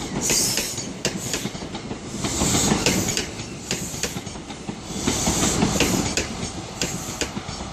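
InterCity 125 HST (CrossCountry) rolling past the platform. Its wheels clatter over the rail joints, and the sound swells every couple of seconds as each coach goes by.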